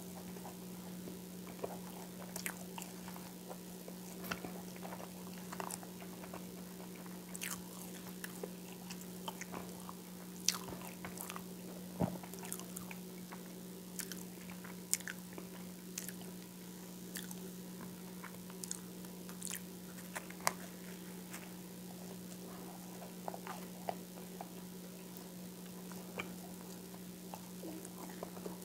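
Close-miked chewing of whole wheat toast with peanut butter and coconut oil: scattered small crunches and wet mouth clicks, over a steady low hum.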